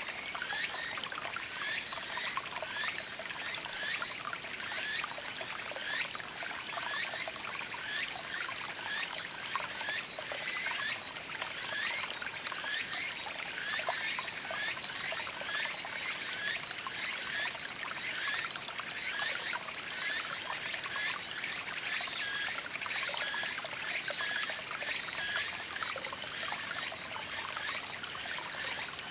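Small mountain stream trickling and babbling steadily over rocks. Over it come many short rising chirps repeating about twice a second, and a steady high buzz of insects.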